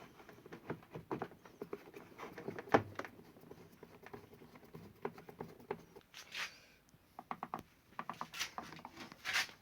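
Scattered light clicks and taps of plastic air cooler casing parts being handled and fitted together by hand, with one louder knock about three seconds in.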